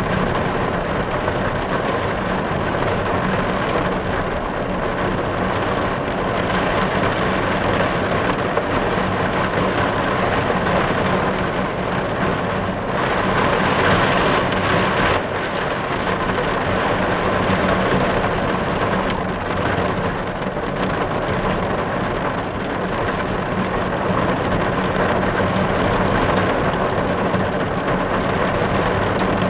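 Steady rain falling on a car's roof and glass, heard from inside the car, swelling slightly about halfway through.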